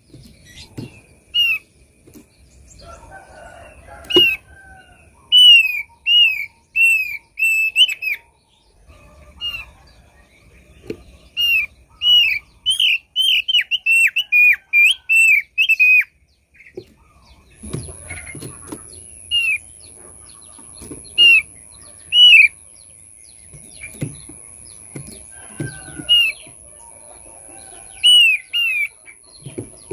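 Thick-billed heleia (opior paruh tebal) calling: short, sharp downslurred notes, some single and some in fast runs, with the quickest run about halfway through. A faint steady high whine joins a little past the middle.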